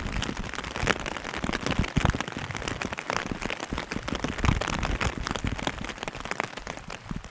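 Rain falling, with a dense patter of many individual drops striking a surface.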